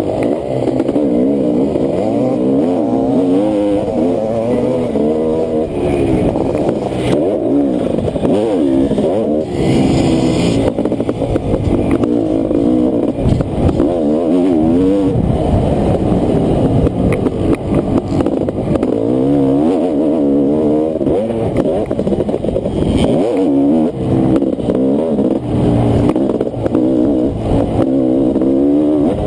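Honda CR500's 500 cc single-cylinder two-stroke engine racing a motocross track, its pitch rising and falling over and over as it revs up, shifts and backs off.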